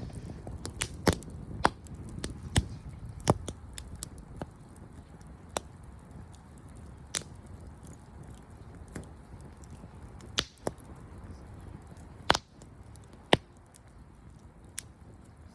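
Wood campfire crackling, with irregular sharp pops over a low rustle of the flames.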